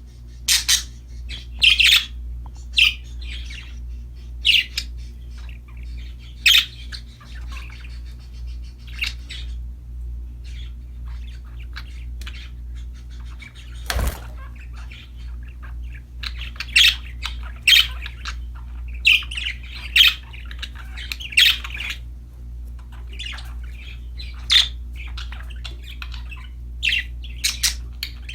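Budgerigars chirping and squawking in short, sharp calls, often one every second or so, over a steady low hum. A single sharp click sounds about halfway through.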